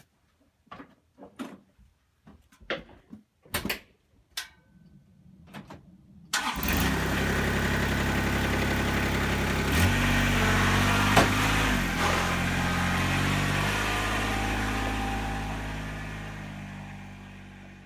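A few scattered clicks and knocks, then about six seconds in a Kubota RTV 1100 utility vehicle's three-cylinder diesel engine starts abruptly and runs steadily. Its note changes about ten seconds in, and the sound fades out near the end.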